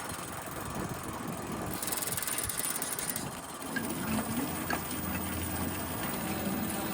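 Bicycle being ridden, with a steady mechanical noise from the bike that the rider calls irritating and kinda annoying, a sign the bike needs upkeep. A wavering whine joins it about four seconds in.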